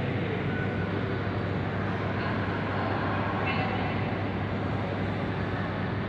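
Steady aircraft noise: a constant low hum under an even rushing hiss, with no sudden events.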